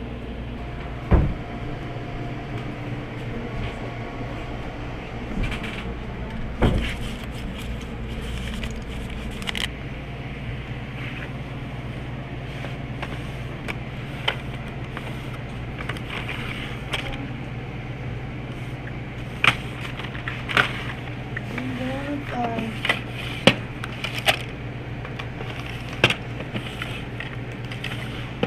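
Steady low hum of a car's engine and road noise while driving, with scattered knocks and clicks and a few faint voice-like sounds.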